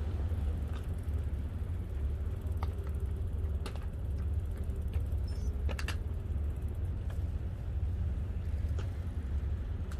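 Steady low rumble of wind and rolling noise from riding a bicycle on a paved path, with a few light clicks about a third and about halfway in.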